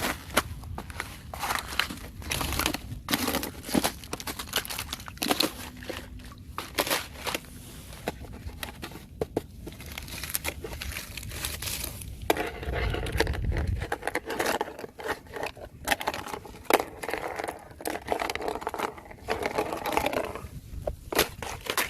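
Thin fresh ice crackling and crunching as it is stepped on and broken: irregular sharp cracks and crinkles, denser in the second half.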